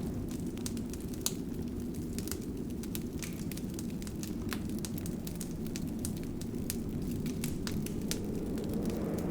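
Wood fire crackling: irregular sharp snaps and pops over a steady low rumble of the flames.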